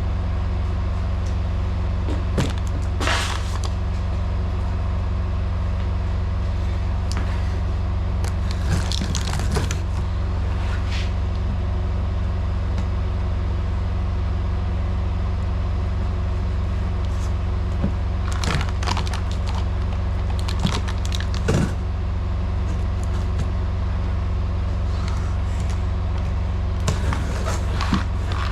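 Semi truck's diesel engine idling steadily, with a few brief knocks and clatters of parts being handled.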